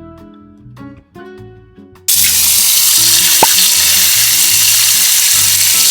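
Acoustic guitar music; about two seconds in, a loud steady hiss starts suddenly and carries on over the music.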